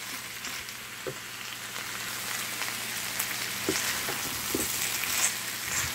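Chopped squash, eggplant, green beans and ground pork sizzling in hot coconut oil in a frying pan, stirred with a wooden spatula, with a few light scrapes and taps of the spatula against the pan.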